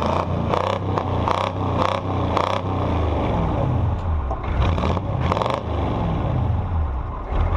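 Naturally aspirated 6.2 L diesel V8 of a Chevrolet K30 truck running while still cold, its engine speed rising and falling. Several irregular scraping, clattering noises sound over it.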